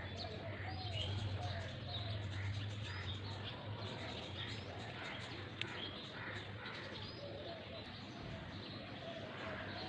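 Several birds calling: short chirps and small arched calls scattered throughout, over a steady low background hum.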